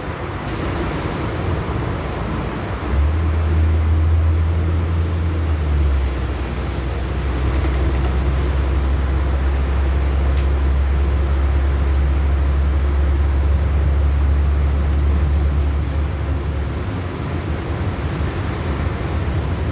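LiAZ-6213.65 articulated city bus under way, heard from inside the cabin: a steady low engine drone with road and body noise. The drone gets louder about three seconds in, changes pitch around six seconds, and eases off near the end.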